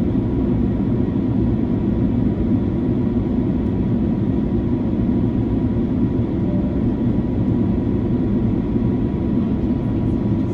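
Steady in-flight cabin noise of an Airbus A330-300: a constant low rumble of engines and airflow, with a faint steady whine above it.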